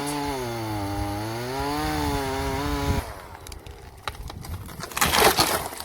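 Chainsaw running under load while cutting a dry tree, its pitch sagging and recovering, then stopping abruptly about three seconds in. Scattered cracks of wood follow, then a loud crash near the end as the tree comes down.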